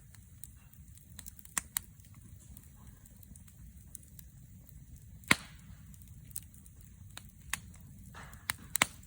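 Wood fire crackling: scattered sharp pops at irregular moments, the loudest about five seconds in and a quick few near the end, over a faint low rumble.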